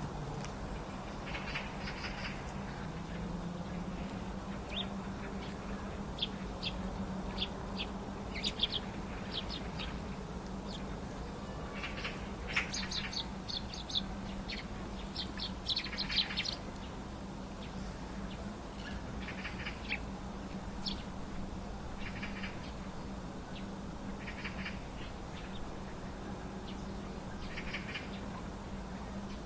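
Small wild birds giving short, high chirps and calls, scattered irregularly, with a busier run about twelve to seventeen seconds in. A steady low hum runs underneath.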